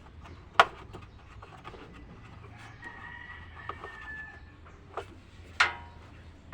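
A rooster crowing once, a drawn-out call about three seconds in. Sharp knocks come before and after it, the loudest near the start and near the end.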